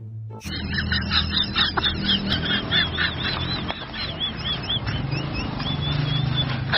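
A bird calling over and over in short arched squawks, about three a second, over a steady low rumble.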